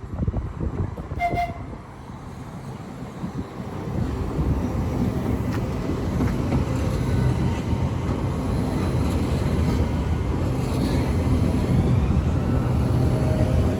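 A train running through the station, its low rumble building from about four seconds in and then holding steady. A short toot sounds about a second in.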